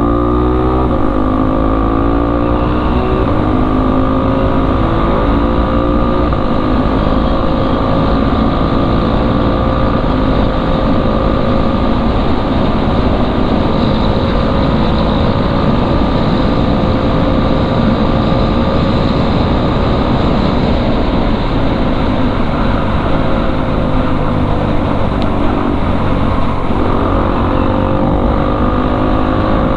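KTM RC 390's single-cylinder engine, catalytic converter removed and fitted with an IXIL exhaust, rising in pitch as it accelerates at the start, then running at steady high speed with only small rises and falls in pitch. A steady rush of noise runs under it throughout.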